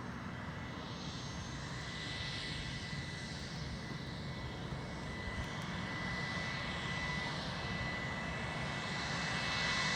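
A large airplane's engines running steadily as it taxis before takeoff: a low rumble with a thin, steady high whine, growing slightly louder toward the end.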